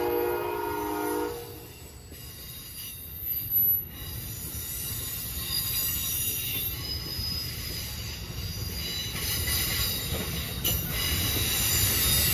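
An Amtrak train's chime horn sounds in a steady chord and stops about a second in, leaving the passenger cars rolling past with low wheel rumble and a high-pitched wheel squeal that grows louder toward the end. A short louder burst comes about three and a half seconds in.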